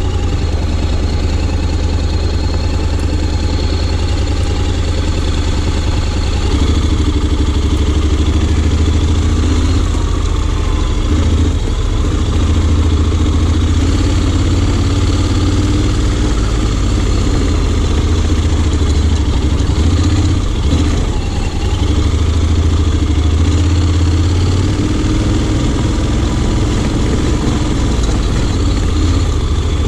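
Honda X-ADV 750's parallel-twin engine running steadily, its pitch rising and falling slightly with small changes of throttle.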